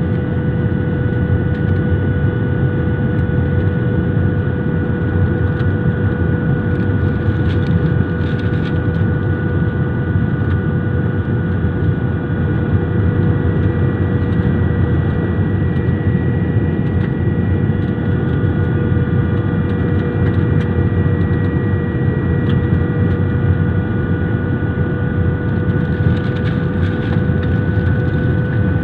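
Airliner's jet engines and airflow during the approach to landing: a steady, loud rush with a few steady whining tones running through it.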